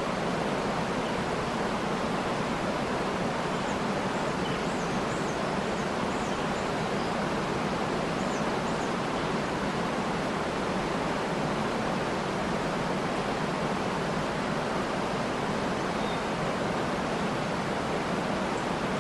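Steady rush of a waterfall, with a few faint, high bird chirps scattered through the first half and near the end.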